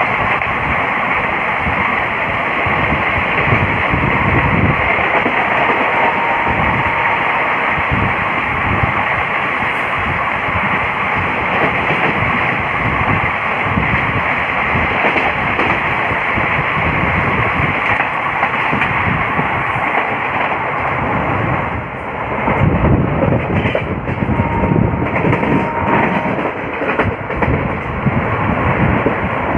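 Loud, steady rushing and rumbling of an Indian Railways passenger coach running at speed, heard from its open door, with wind on the microphone. The sound passes close alongside wagons on the next track, dips briefly about 22 seconds in, then carries on with a heavier low rumble.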